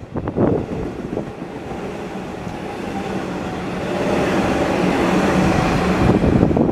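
A train approaching and running past, its rumble and steady hum growing louder from about two seconds in and holding loud near the end.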